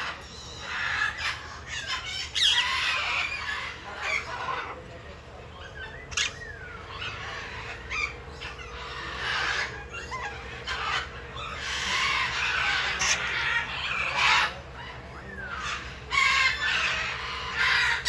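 Birds calling in irregular bursts of squawks and chatter, some loud and close, with short quieter gaps between.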